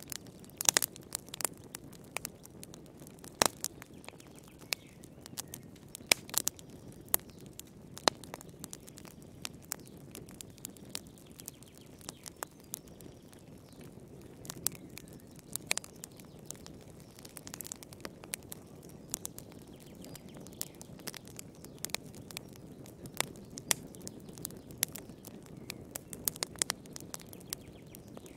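Wood fire crackling, with irregular sharp pops and snaps over a soft steady rush of flame.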